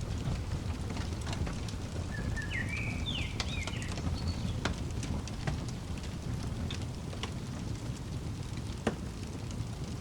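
Wood fire crackling in a fireplace: a steady low rumble with scattered sharp pops. A bird calls with a short run of quick chirps about two to three seconds in.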